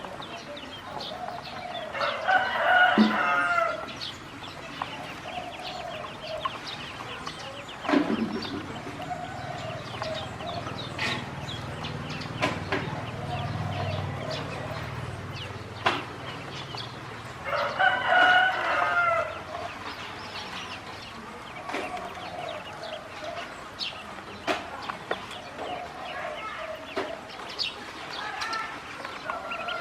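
A rooster crows twice, about fifteen seconds apart, each crow the loudest sound here. Between the crows there are repeated shorter poultry calls and a few sharp knocks.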